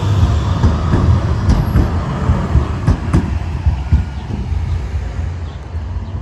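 Tram running on its rails: a steady low rumble, with several sharp knocks in the middle that ease off a little near the end.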